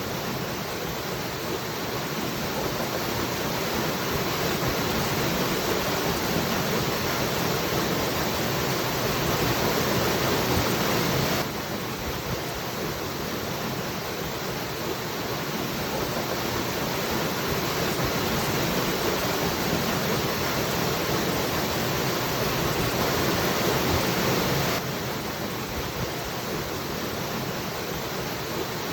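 A waterfall's steady rushing water. It swells slowly and drops back abruptly twice.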